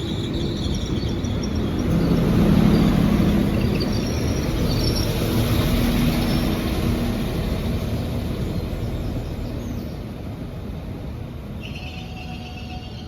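Class 197 diesel multiple unit running into the station. Its engine and wheel noise swells to a peak a couple of seconds in, then slowly eases away as the train slows.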